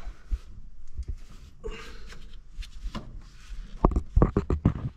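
Scattered light knocks and rubbing, then a quick run of loud thumps about four seconds in.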